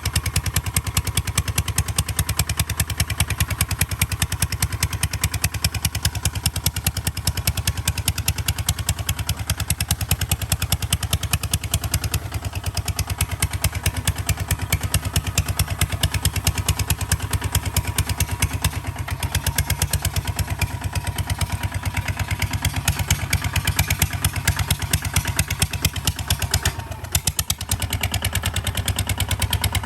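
Kubota ZT155 DI single-cylinder diesel engine of a walking tractor running steadily with a rapid, even chugging beat, dipping briefly near the end.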